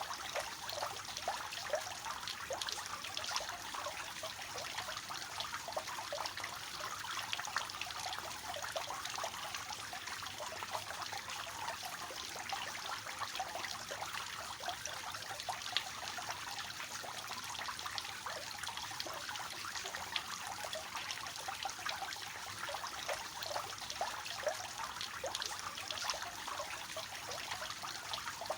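Water of a three-tier cascading fountain falling and splashing into its basins: a steady, continuous trickling and splashing with many small droplet spatters.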